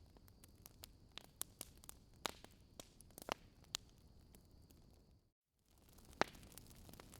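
Wood fire crackling in a fireplace: irregular sharp pops and snaps, a few louder ones, over a faint low hiss. The sound cuts out completely for a moment about five seconds in, then the crackling resumes.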